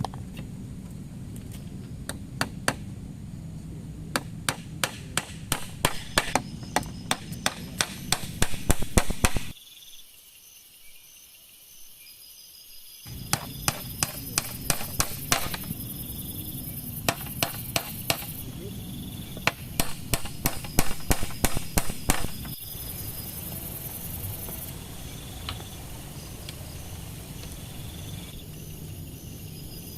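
Long series of sharp, hammer-like knocks in two runs, coming faster toward the end of the first run, with a short break between the runs; a steady hiss runs underneath.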